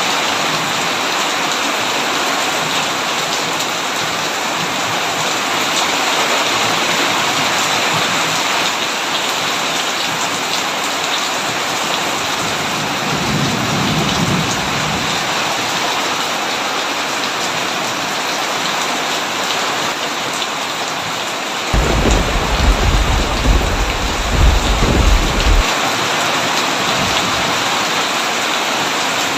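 Heavy rain falling steadily as a dense hiss. A faint roll of distant thunder about halfway through, then a heavier low rumble of thunder lasting about four seconds near the end.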